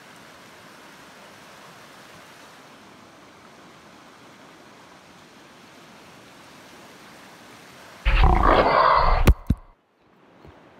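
Rushing mountain creek, a steady wash of water. About eight seconds in, a loud roar lasting a little over a second cuts in suddenly, followed by two sharp clicks, and then the sound cuts out briefly.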